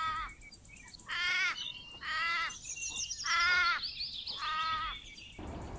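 Kangaroo calling: short harsh calls, rich in overtones, repeated about once a second, five in all. They stop about five seconds in.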